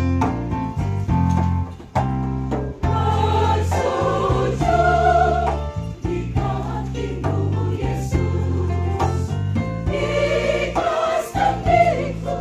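Church choir singing a hymn in parts over sustained instrumental accompaniment, the voices swelling twice and then easing off.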